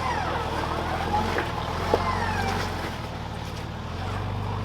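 A 4WD's engine running steadily at low revs, with a few sharp clicks and faint high gliding whistles over it.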